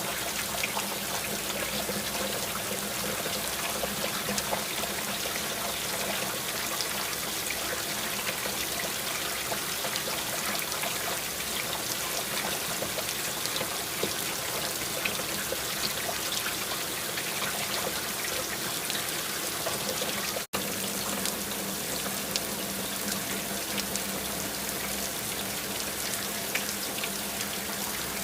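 Steady rain: an even hiss of falling water with many small drops ticking, over a faint steady low hum. The sound cuts out for an instant about twenty seconds in, then carries on unchanged.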